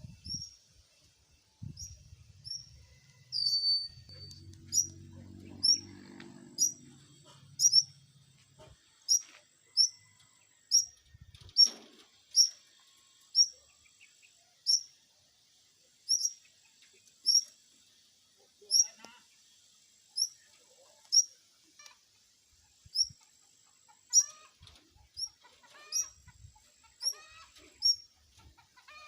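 A bird chirping: a short, high, down-slurred chirp repeated steadily about once a second.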